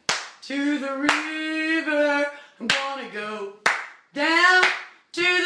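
A hoarse solo voice singing long, wordless held notes of a gospel song with no accompaniment, with four sharp hand claps in an uneven beat.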